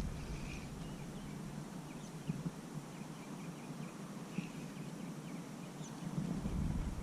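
Quiet outdoor ambience with a few faint bird chirps and a couple of soft low knocks.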